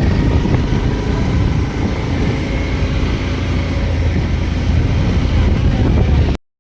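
Vehicle on the move: a steady low rumble of engine and road noise, which cuts off suddenly near the end.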